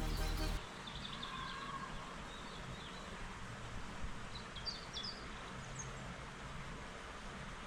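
Background music cuts off about half a second in, leaving outdoor ambience with small birds chirping now and then.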